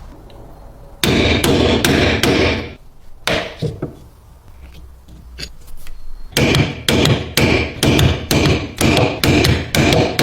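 Hammer blows on the metal parts of a stapler being restored: a quick run of strikes about a second in, a couple of lone taps, then a steady series of about three blows a second in the second half.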